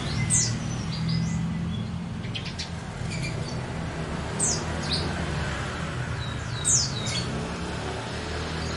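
Small songbirds chirping in short, sharp, high calls every second or so, over a steady low hum.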